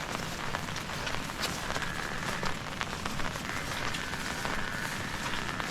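Steady rain falling, with many small drop impacts ticking through it.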